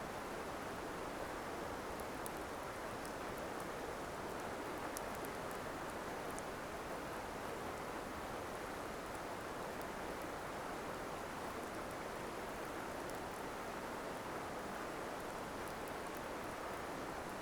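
Steady, even rushing noise with faint, scattered crackles from a wood campfire.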